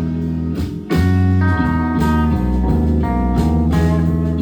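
Live band playing guitar-led instrumental music, with a short break about a second in before the band comes back in.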